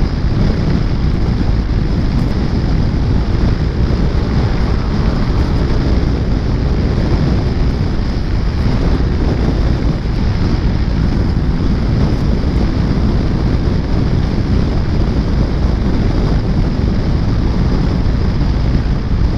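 Steady wind rush buffeting the microphone of a scooter in motion, a loud low rumble with the scooter's engine and road noise underneath.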